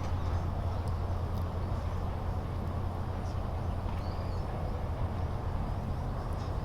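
Wood fire burning in a mesh fire stand, with a few faint crackles over a steady low rumble.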